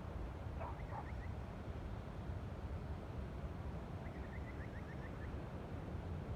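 Faint birdsong: a few short chirps about half a second in, then a quick run of about eight short chirps around four seconds in, over a steady low rumble.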